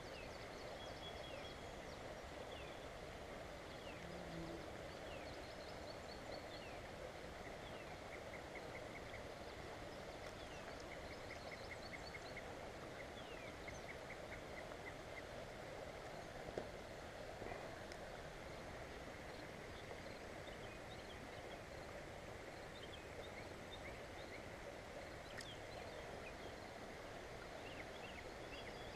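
Songbirds singing over a steady outdoor rush of background noise: repeated rapid trills and short downward-slurred whistles come and go throughout. A single sharp click sounds a little past halfway.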